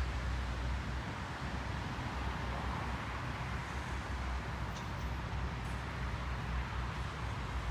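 Train running past on the tracks: a steady, noisy rumble with no clear beat.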